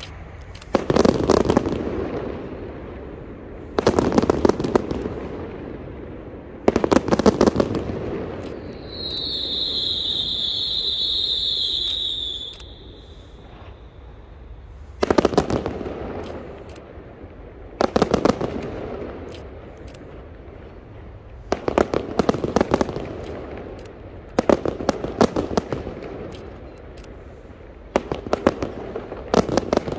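Fireworks bursting in the air, with clusters of sharp, rapid crackling bangs every few seconds. Near the middle a steady high whistle is held for about three and a half seconds.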